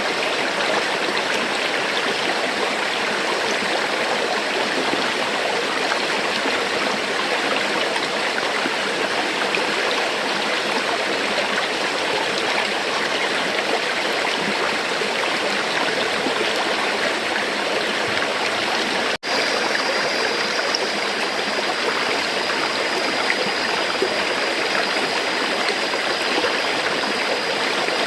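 River water flowing: a steady, even rush of running water. About two-thirds of the way through the sound cuts out for an instant, and a faint steady high tone runs alongside the water after it.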